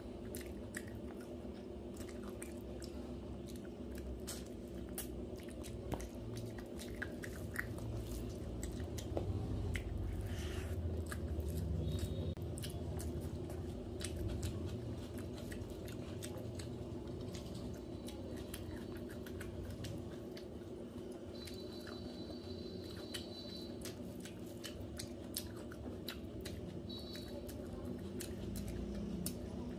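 Close-miked chewing and biting of chicken curry and rice eaten by hand, with many small clicking mouth sounds. A steady low hum runs underneath.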